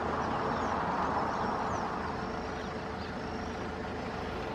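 Airbus A319 jet engines running at taxi power, heard as a steady rushing hum that swells slightly about a second in.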